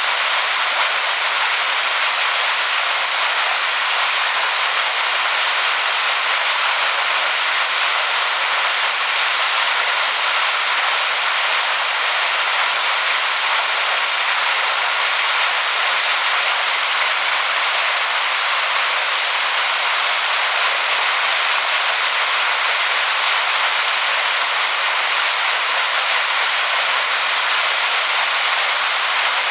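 Waterfall pouring onto rocks: a loud, steady, hissing rush of falling water.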